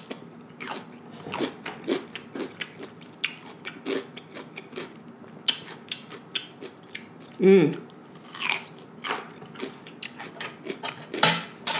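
Raw cucumber being bitten and chewed close to a microphone: a run of sharp, crisp crunches, with a brief hum about seven and a half seconds in and another loud crunch near the end.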